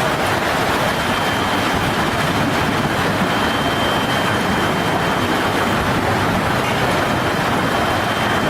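Severe storm: a steady, dense rush of wind and heavy rain, with a faint high steady whine in the background.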